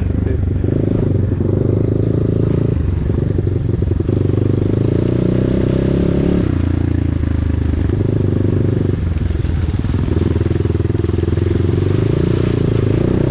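Enduro motorcycle engine running loudly under throttle, the revs rising and falling. The pitch drops about six seconds in and climbs again near the end.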